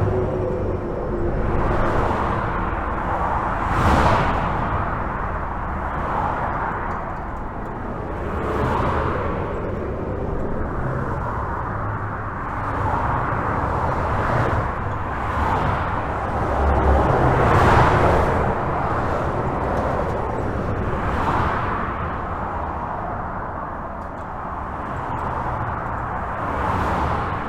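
Highway traffic heard from under a bridge: a steady rush of tyre and engine noise, with individual vehicles swelling and fading past every few seconds.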